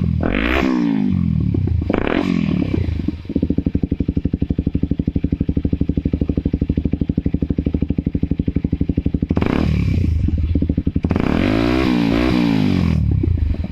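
Kawasaki Ninja 250SL's single-cylinder engine through an SC Project aftermarket exhaust, blipped a few times, then idling with an even, lumpy pulse for several seconds before being revved up and down twice more near the end.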